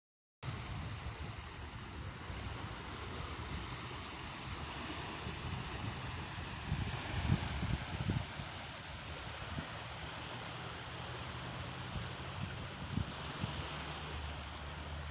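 Sea waves washing in, a steady hiss of surf, with low gusts of wind rumbling on the microphone about halfway through.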